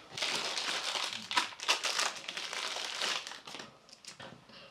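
Packaging crinkling as it is handled: a dense, crackly rustle for about three seconds, then a few scattered crinkles and clicks.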